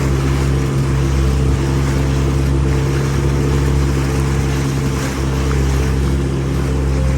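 Boat engine running steadily under way, a constant drone with a hiss of wind and water over it.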